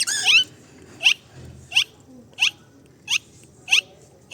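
Cockatiel calling over and over: short, sharply rising chirps about every two-thirds of a second, with a quick flurry of chirps right at the start.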